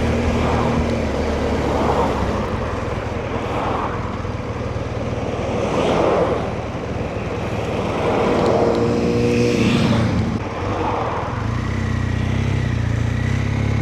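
Motorcycle engine running while riding in traffic, under wind rush on the rider's microphone; the noise swells and fades, and a short pitched engine note comes and goes about eight seconds in.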